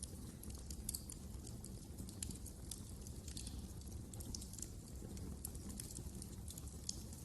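Wood fire crackling: many small irregular pops and snaps over a low, steady rumble of the flames.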